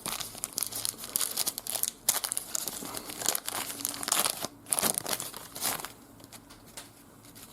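Trading card pack wrapper being torn open and crinkled by hand, a run of crackling rustles that dies away about six seconds in.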